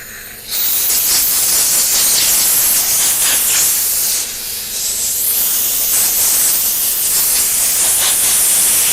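Compressed-air blow gun hissing in a long, loud blast, starting about half a second in and easing off briefly around the middle before going on.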